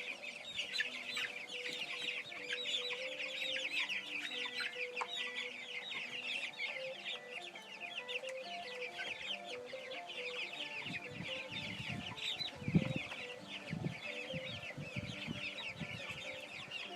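A flock of young chicks peeping all together: a continuous chorus of short, high, falling peeps from many birds at once. About two-thirds of the way through there is a short low thump.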